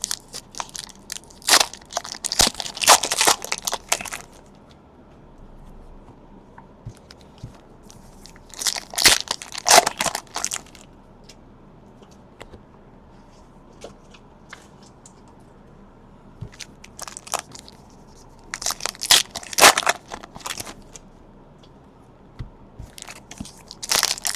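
Trading-card pack wrappers being torn open and crinkled by hand, in four bursts of crackling about two seconds long with quiet stretches between.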